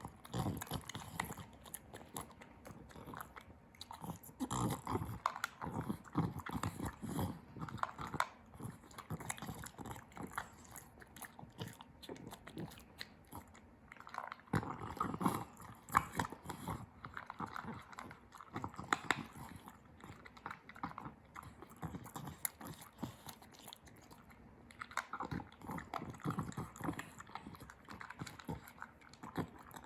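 Frenchton puppy eating, chewing and crunching in several bouts of quick clicking bites with quieter pauses between.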